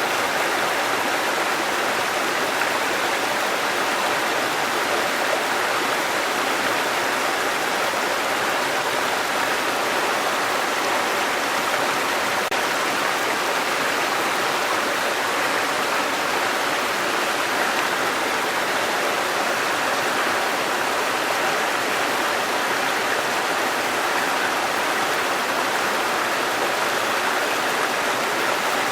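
Steady rushing of water from a waterfall and stream, an even, unbroken sound.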